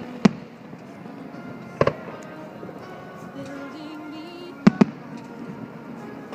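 Fireworks exploding: a sharp bang just after the start, a quick double bang about two seconds in, and another double bang near five seconds, over background music.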